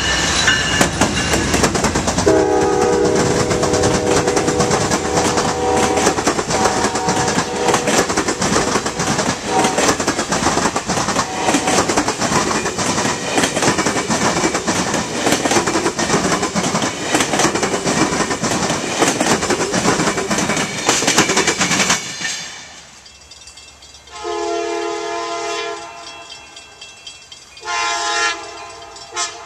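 Train passing close by, its wheels clattering over the rail joints, while the locomotive's multi-chime air horn sounds long blasts for the first several seconds. The passing noise cuts off suddenly about three-quarters of the way in, and two quieter horn blasts follow near the end.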